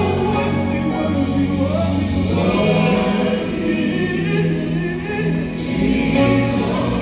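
Gospel music with a choir singing over sustained bass notes.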